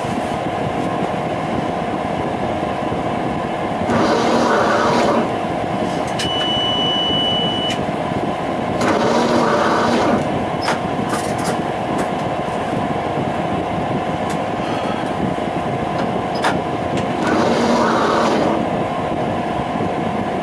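Electric tram running in service, heard on board: a steady electrical hum over rolling noise that swells louder three times, about four, nine and seventeen seconds in. A short high beep sounds about six seconds in.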